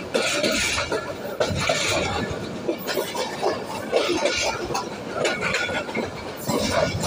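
Passenger train coach running along the track: the wheels on the rails and the rattling carriage, with many irregular metallic clinks and knocks.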